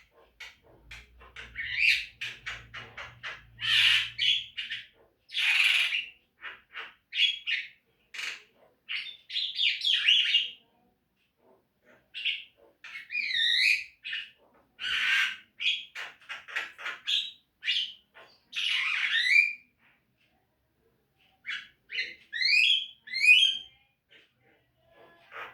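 Javan myna (jalak kebo) calling: a busy run of harsh squawks and chattering notes mixed with short whistles, some sliding up and down in pitch, coming in bursts broken by a couple of brief pauses.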